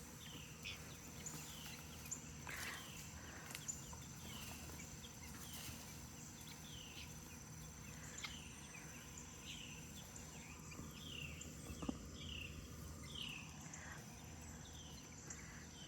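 Quiet outdoor ambience: a bird repeating short falling chirps about once a second over a steady high insect trill, with an occasional faint knock.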